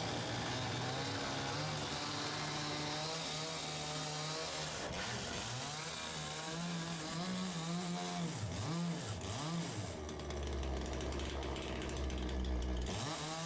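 A power saw cutting through wooden ceiling boards, its motor pitch dipping and recovering under load about two thirds of the way through, with a heavier low drone near the end.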